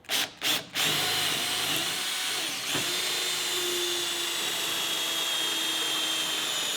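Power drill running, most likely drilling holes for carriage bolts through the barn-wood door panel and its metal backing: two short blips, then one steady run of about six seconds.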